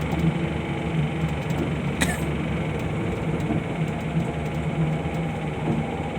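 Steady hum of a running vehicle engine heard from inside the vehicle, with faint voices in the background.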